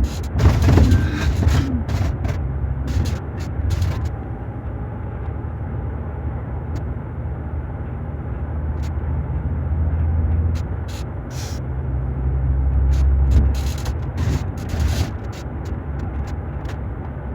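Diesel engine of a Scania K400 double-decker coach running with a low, steady drone that swells twice, about ten and thirteen seconds in. Scattered sharp clicks and knocks, loudest near the start.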